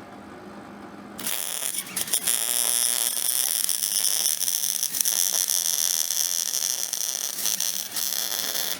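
Electric welding arc: about a second in it strikes and crackles and sizzles steadily for some seven seconds, then cuts off. A low steady hum sits under it before the arc starts.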